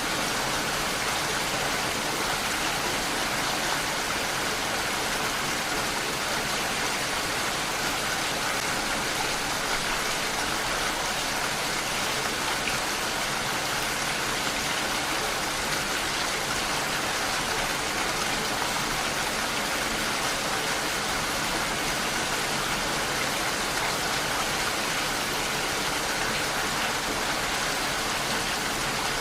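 Steady rain, falling evenly without a break.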